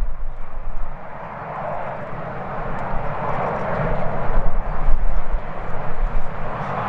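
Jet airliner engines roaring, swelling to a peak in the middle and easing off, with gusts of strong wind buffeting the microphone in a low rumble.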